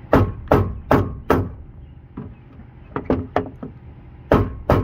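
Hammer blows on the sheet-metal door of a 1996 Jeep XJ, knocking a dent back out: four quick heavy strikes, a run of lighter knocks, then two more heavy strikes near the end.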